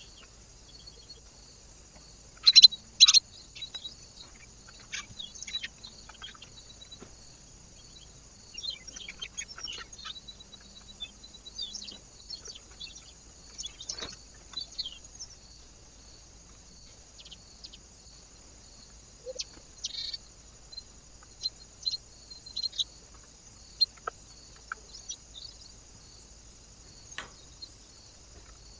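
Small birds at a feeder giving short, scattered chirps and calls, two loudest about two and a half seconds in, over a steady high hiss.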